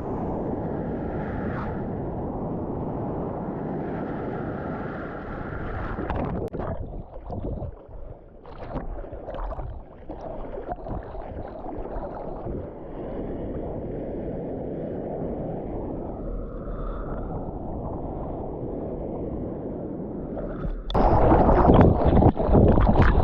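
Water and wind noise on a surf camera's microphone: a steady rush, broken up by choppy splashing for several seconds, then a sudden much louder rush about 21 s in.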